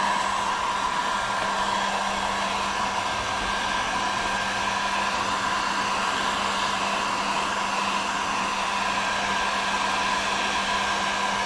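Electric heat gun running steadily: a continuous blower rush with a steady hum and whine, as it heats kayak plastic for a melt patch.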